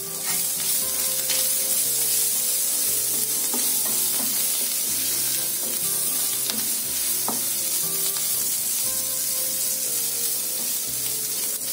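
Chicken, onion and herb stuffing frying in oil in a nonstick pan, with a steady sizzle. A wooden spatula stirs it, scraping and tapping the pan now and then.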